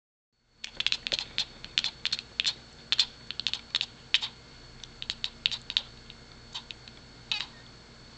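A cat making a run of quick, irregular clicking sounds in short clusters, the chattering a cat makes when fixed on prey, here a laser pointer's dot. Near the end one click carries a brief chirp.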